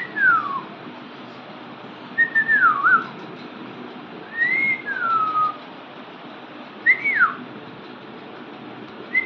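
A series of clear whistles, about one every two seconds, each a short glide in pitch: falling, dipping and rising again, or rising then falling.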